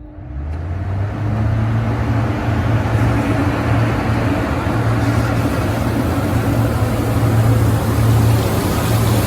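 Wet stone-dust collector switched on: its exhaust fans and water pump spin up over about a second into a steady, loud rush of air and water with a low hum.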